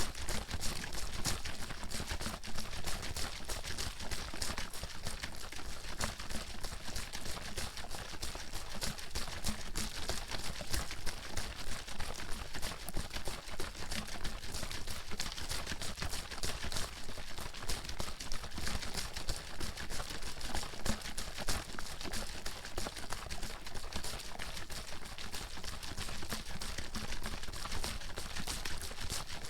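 Water bottle being shaken nonstop, the water sloshing and slapping inside in quick, even strokes.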